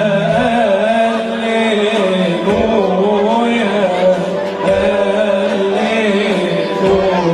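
Church choir singing a Christmas hymn in Arabic, several voices holding a flowing melody together, with a low beat about every two seconds beneath it.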